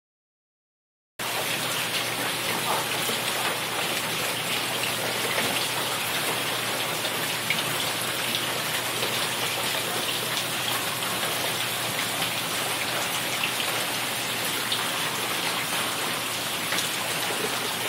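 Rainwater pouring indoors like a waterfall and splashing down in a steady, dense hiss that starts about a second in. The overflow comes from gutters that could not carry a heavy downpour.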